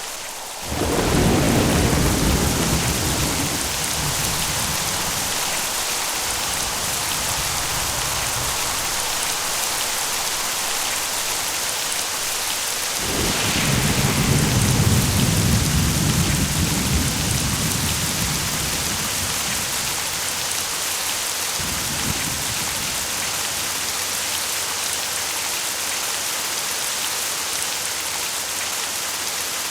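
Steady rain with thunder: a sudden low rumble breaks in just under a second in and dies away over several seconds, a second, louder clap and rumble comes about halfway through, and a shorter, fainter rumble follows about eight seconds later.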